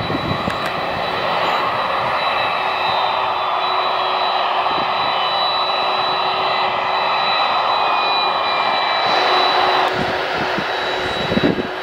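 Jet airliner engines running loud and steady, with a thin high-pitched whine over the rushing noise. The sound eases slightly near the end, where wind starts buffeting the microphone.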